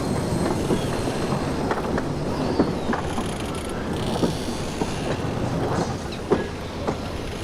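Slow-moving railway goods wagons: a steady rumble with irregular clanks and clicks from the wheels and couplings.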